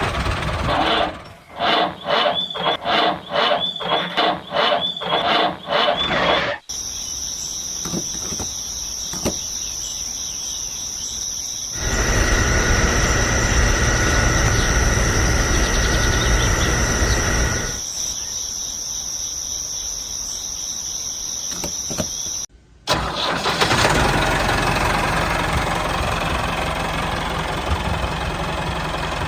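Small engine of a mini DIY tractor running, heard in several edited clips. In the middle clip a steady high-pitched whine runs throughout, with a louder low rumble for a few seconds.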